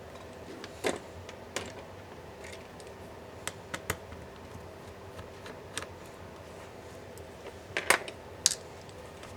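Irregular sharp clicks and taps of small tools and plastic and metal laptop parts being handled during disassembly, about nine in all, with the loudest cluster near the end.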